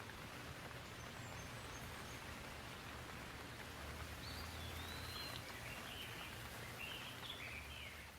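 Gentle rain falling as a steady, even hiss. From about four seconds in, a bird calls in a quick run of short high chirps over it.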